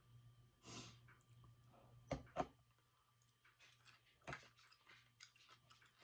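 Quiet close-up eating sounds: a breath out just under a second in, then sharp clicks and smacks of chewing, loudest twice a little after two seconds and once about four seconds in, over a faint steady electrical hum.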